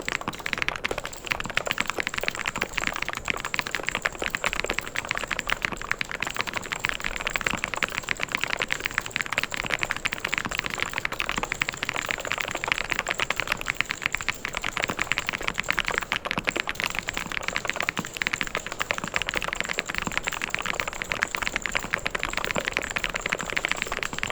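Fast, continuous typing on a mechanical keyboard: a dense run of key clicks and clacks with no pauses.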